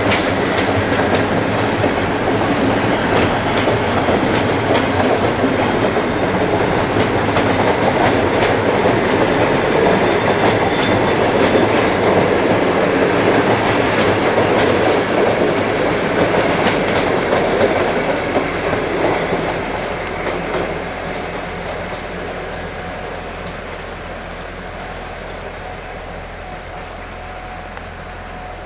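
Train rolling past, wheels clicking over the rail joints, with the rumble fading away from about two-thirds of the way through as it draws off.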